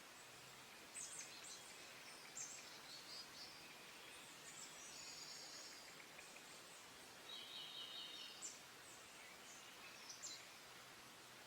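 Small wild birds calling faintly: scattered high chirps and a couple of short trills of quickly repeated notes, over a steady background hiss.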